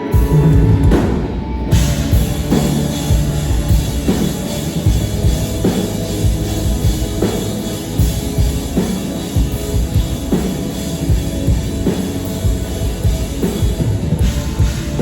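Live rock band playing loud and heavy, with a pounding drum kit and bass. The full band comes in suddenly at the start and fills out further about two seconds in.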